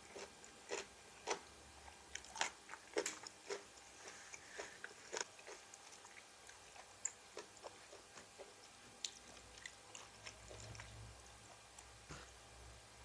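A person biting and chewing crisp raw vegetables, a close run of sharp crunches that are loudest in the first few seconds and thin out after about six seconds.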